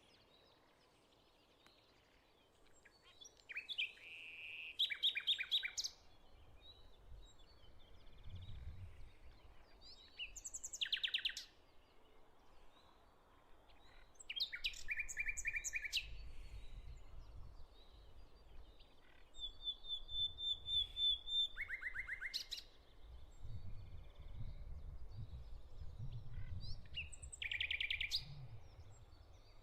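Songbirds singing short bursts of rapid repeated notes every few seconds, with one held high whistle a little past the middle. A faint low rumble comes and goes underneath.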